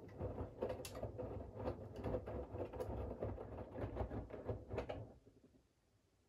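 Siemens iQ700 front-loading washing machine drum turning for about five seconds during its wash rhythm, with laundry dropping and tumbling in a series of soft knocks over a low rumble. It stops about five seconds in for the rest pause between turns.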